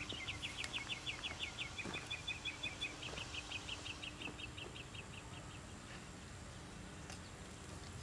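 A bird calling in a rapid run of short high chirps, about six a second, that fades away over the first four to five seconds, leaving faint outdoor background.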